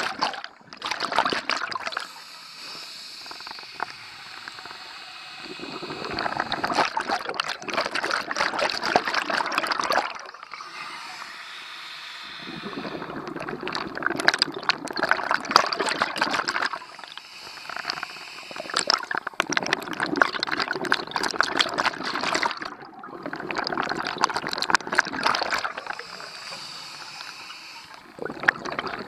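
Scuba diver breathing through a regulator underwater: loud bubbling exhalations of a few seconds each, alternating with quieter hissing inhalations, about one breath every five seconds.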